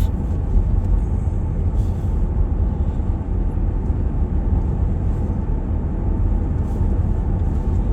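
Steady low road-and-engine rumble of a vehicle driving, heard from inside the cabin.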